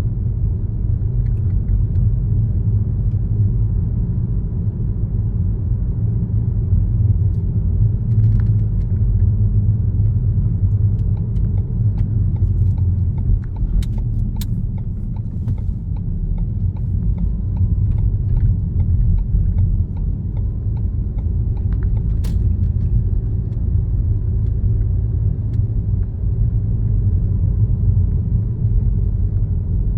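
Car driving along a road: steady low tyre and road rumble, with a few small clicks or rattles about 8, 14 and 22 seconds in.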